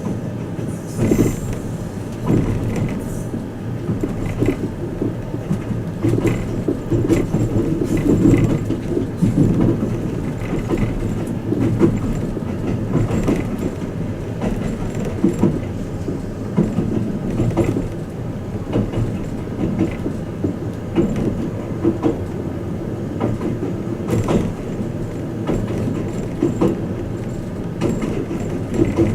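Twilight Express Mizukaze train running, heard inside a passenger cabin: a steady rumble of wheels on rail with frequent irregular knocks and rattles.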